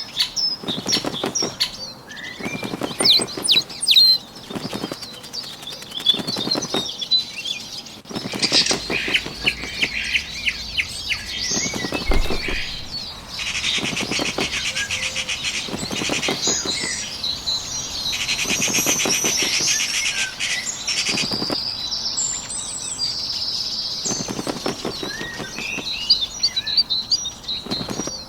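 Bird wings flapping in repeated short fluttering bursts, with small birds chirping and trilling high over them.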